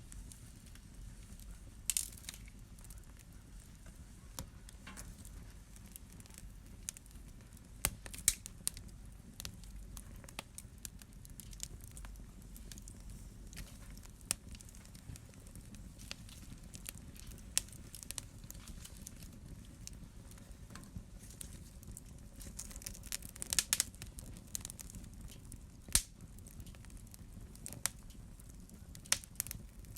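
Wood fire burning in a fireplace: irregular sharp crackles and pops over a steady low rumble of the flames, with a quick cluster of pops a little before the three-quarter mark.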